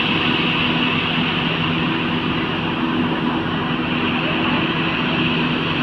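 Heavy diesel engine of construction machinery running steadily, with a constant low drone and a hissing whine above it.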